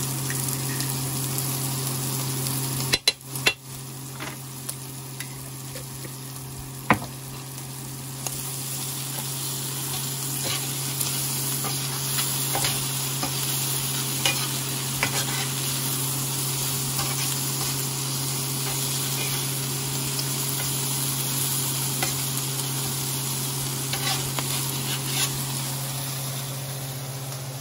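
Squid rings and hot pepper rings sizzling in olive oil in a hot skillet while being browned. A slotted spatula scrapes and knocks against the pan a few times, sharpest about three and seven seconds in, and the sizzle grows a little louder after about eight seconds.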